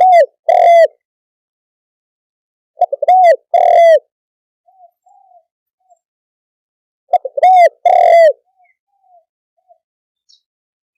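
Spotted dove calling, its phrase of quick short notes followed by two longer rolling coos repeated three times about four seconds apart, with faint softer notes between phrases. This is the call that keepers play to lure wild doves.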